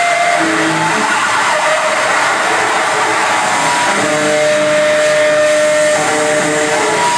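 Loud live experimental noise music: a dense, harsh wash of hiss with several held tones on top that shift to new pitches every second or two.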